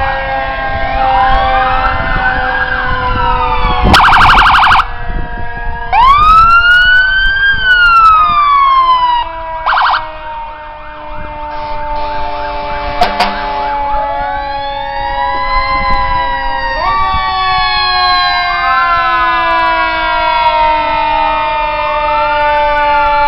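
Several fire truck sirens wailing at once, their pitches rising and falling out of step with one another. Two short, very loud blasts break in about four seconds and ten seconds in.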